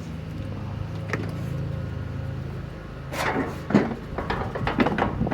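Riding lawn mower engine running with a steady low hum. About three seconds in, a series of sharp clunks and rattles begins and the hum drops away.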